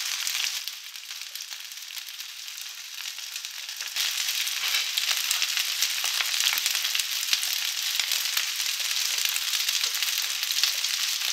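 Cơm cháy, thin cakes of pressed leftover rice, shallow-frying in a little oil: a steady sizzle with fine crackling, quieter for the first few seconds and louder from about four seconds in.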